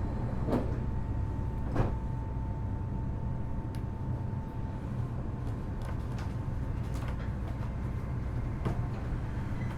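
Inside a Kitakyushu Monorail Series 1000 car standing at a station: a steady low hum from the car's equipment, with the sliding doors closing in a few clunks, the loudest about two seconds in. A steady high tone sounds through the first half.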